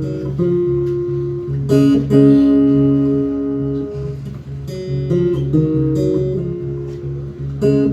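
Acoustic guitar played live, an intro of picked and strummed chords with a low bass note ringing under changing higher notes, and hard strums about two seconds in and near the end.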